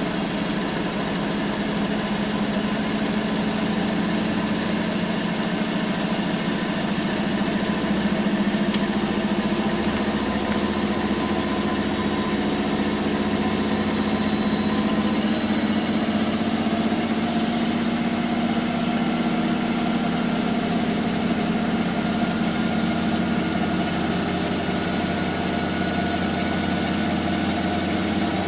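Bosch WAN28220FF washing machine running a Synthetics 40 °C cycle: a steady motor hum whose pitch drifts slightly up and back.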